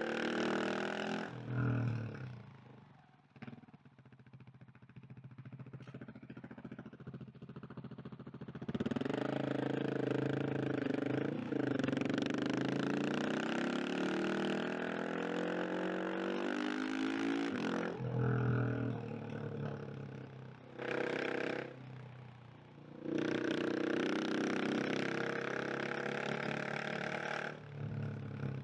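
KTM 690 SMC R single-cylinder motorcycle engine being ridden, alternating between easing off and hard acceleration with the revs climbing. Short throttle bursts come around the middle and near the end, between a long pull from about nine seconds in and a loud stretch in the last few seconds.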